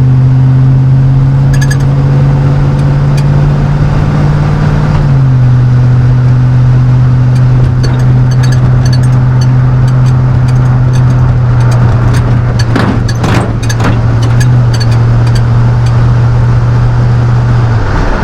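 Chevrolet 5.3L LM7 V8 with a Cherry Bomb straight-through muffler, heard from inside the truck's cab: a steady low exhaust drone under load, stepping down slightly in pitch about five seconds in.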